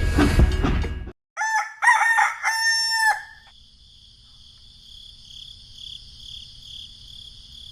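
A rooster crows once, a short note, a second note and a long drawn-out last note, after a clattering noise cuts off suddenly about a second in. A steady faint high insect trill, like crickets, follows the crow.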